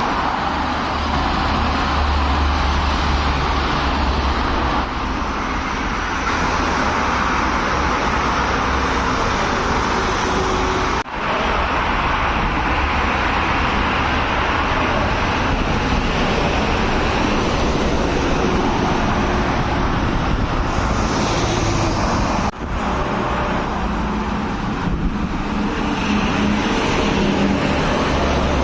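Steady highway traffic noise: tyre and engine noise from vehicles on a busy road. It breaks off for an instant twice, about a third and about three-quarters of the way through.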